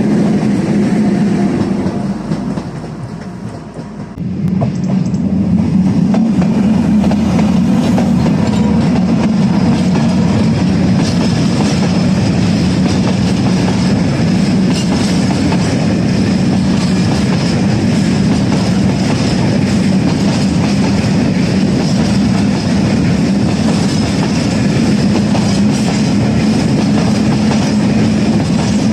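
A train passing close by, wheels clacking over the rails with a steady low rumble. The sound dips briefly about three seconds in, then comes back and holds steady.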